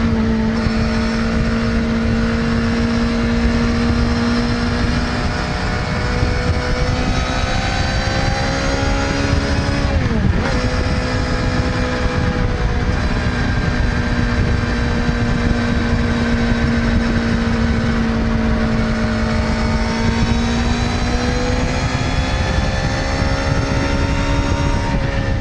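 Suzuki GSX-R600 sport bike's inline-four engine running at a steady high rev, its pitch creeping slowly up, with a brief dip in pitch about ten seconds in.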